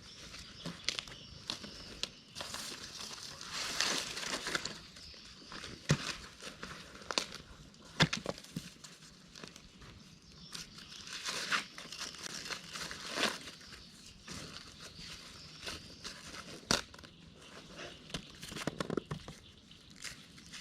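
Dry corn leaves and husks rustling and crackling as corn is picked by hand, in uneven swells, with repeated sharp snaps.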